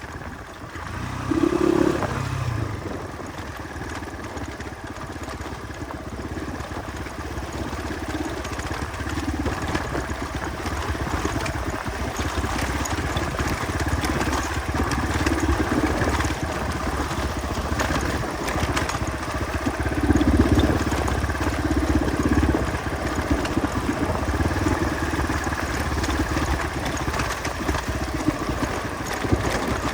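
Motorcycle engine running at low speed on a rough off-road trail, its note rising and falling with the throttle.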